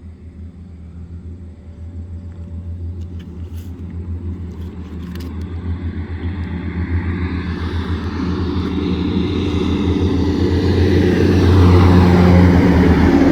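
A large truck approaching on the road: its engine rumble and road noise grow steadily louder, loudest near the end.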